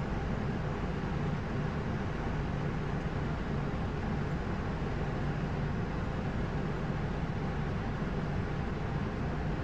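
Steady flight-deck noise of an Airbus A220-100 climbing after takeoff: a constant rush of air with a low hum underneath.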